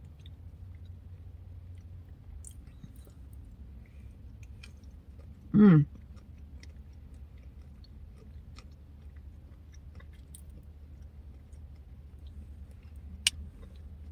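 Mouth sounds of eating a yogurt parfait with blueberries and pecans: quiet chewing and small wet clicks. Partway through there is one short, loud voiced sound, and near the end a single sharp click.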